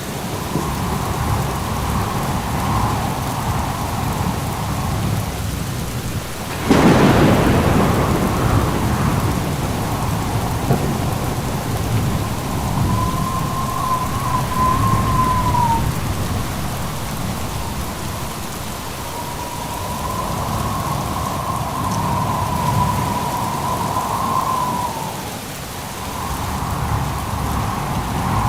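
Steady rain during a thunderstorm with low rumbling thunder. A sharp thunderclap breaks about seven seconds in and fades over a couple of seconds. A thin wavering tone comes and goes in the background.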